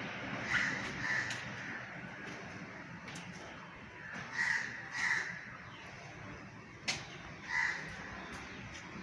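A bird calling outdoors: five short calls, a pair near the start, another pair midway and a single one near the end, over steady background noise, with one sharp click shortly before the last call.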